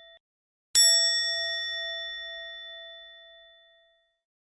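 A single struck bell-like chime, sharp at the strike and then ringing out with a clear tone that fades over about three seconds. A similar ring cuts off abruptly just before it, after which there is a brief moment of dead silence.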